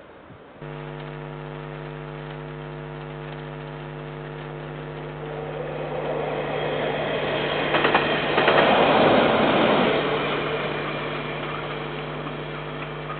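A train passing on the railway line: a rumble of wheels on rail that builds from about five seconds in, peaks with a few sharp clicks around eight to nine seconds, then fades. Under it runs a steady pitched hum that starts abruptly about half a second in.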